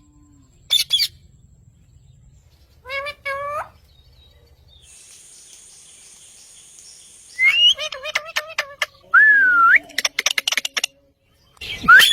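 Pet parrot calling: a few short squawks, then about seven seconds in a run of rapid chattering calls and a whistle that rises and falls.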